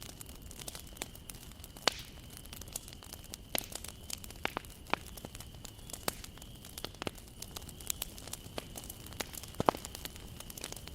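Wood bonfire burning, crackling with irregular sharp pops over a low steady rush of flame. Two pops stand out, about two seconds in and near the end.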